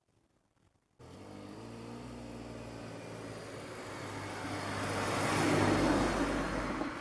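A road vehicle, most likely a car, driving past with its engine running. It gets steadily louder to a peak about five to six seconds in, then starts to fade.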